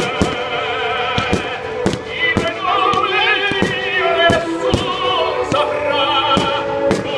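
Music with operatic singing in strong vibrato, overlaid by sharp firework bangs going off irregularly, about one to two a second.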